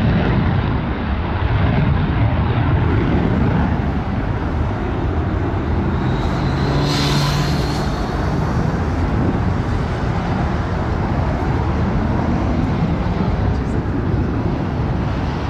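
Aircraft engine noise at an airshow: a loud, steady rush with a brief faint tone about seven seconds in.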